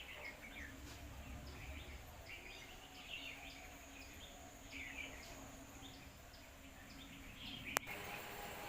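Faint bird chirps, repeated every second or so, over steady outdoor background noise, with one sharp click near the end.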